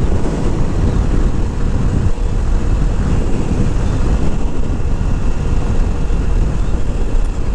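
Kawasaki Z400 motorcycle on the move: the parallel-twin engine runs under steady wind rush on the rider's microphone.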